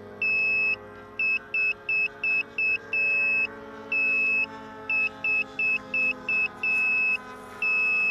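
Electronic beeper sounding a high-pitched pattern of short and long beeps, over a steady lower drone of several tones.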